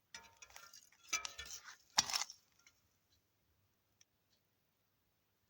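Clattering and clicking of handling noise for about two seconds, ending in one sharp knock, then a few faint ticks.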